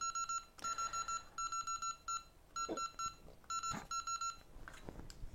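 Electronic beeping: one high tone pulsing rapidly in short runs of beeps, about half a dozen runs with brief gaps between them, with a couple of faint taps.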